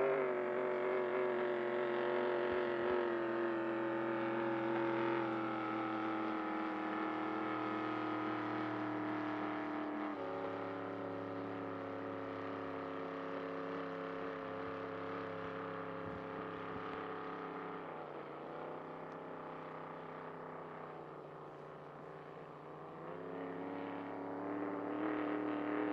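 A 5-litre racing hydroplane's engine running hard on the water. Its note slowly falls in pitch and fades, dropping a step about 10 s and 18 s in, then rises and grows louder again near the end.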